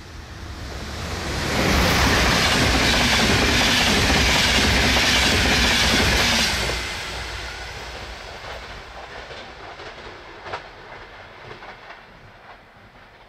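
Passenger train passing at speed over the station's switches and rail joints. Its wheel and running noise swells over about two seconds, stays loud for about five, then fades, leaving a trail of separate clicks from the wheels crossing rail joints as the last coaches move away.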